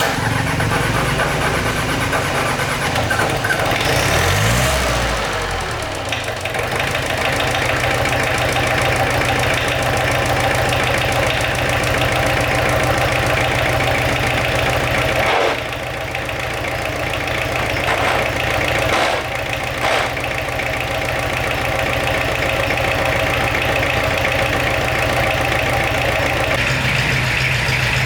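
Restored tractor's engine running steadily, revving up about four seconds in and briefly easing off twice in the middle.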